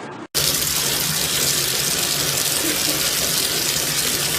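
Water running steadily with a loud, even hiss, starting abruptly just after the start.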